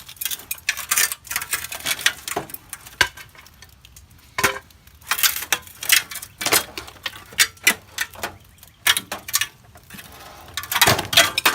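Old aluminum window frame being worked back and forth and pulled out of its opening: irregular metal clicks, clinks and scrapes, busiest near the end.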